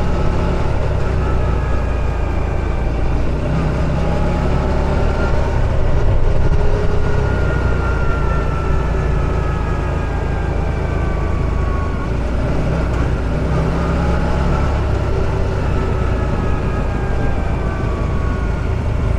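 Off-road buggy's engine running steadily under way: a loud low drone with a fainter whine that slides slowly up and down in pitch.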